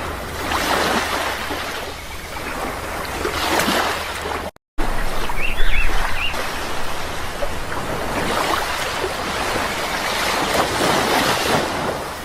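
Sea waves washing in and drawing back, swelling and easing every few seconds. The sound drops out completely for a moment about four and a half seconds in, and a few short bird chirps come just after it.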